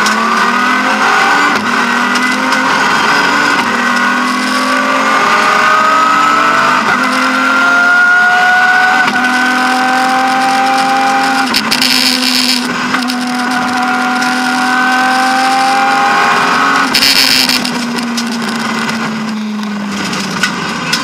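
BMW E36 M3's straight-six engine heard from inside the rally car at full throttle, its note climbing through the revs, dropping at each upshift and climbing again. There are two short bursts of hiss about twelve and seventeen seconds in, and the note falls away over the last few seconds as the driver lifts off.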